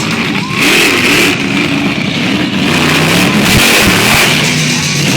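Monster truck engines running and revving loudly, with music playing underneath.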